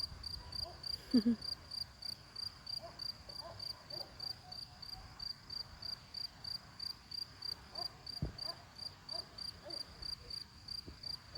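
A cricket chirping steadily and rhythmically, about three to four short high chirps a second, really going for it: the calling song that males typically make to attract a female.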